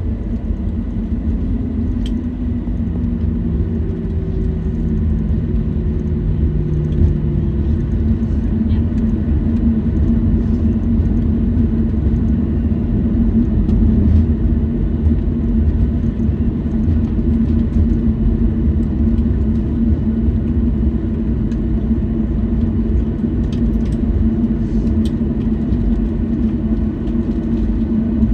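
Steady low rumble and hum inside the cabin of a Boeing 737-800, from its CFM56 engines running at idle on the ground after landing. One tone in the hum drops slightly in pitch a few seconds in, and a few faint clicks sound near the end.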